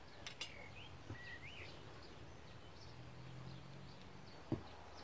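Faint garden ambience: a bird whistles a few short wavering notes about a second in, with small chirps in the background. Two sharp clicks sound right at the start, a faint low hum runs through the middle, and a single knock comes near the end.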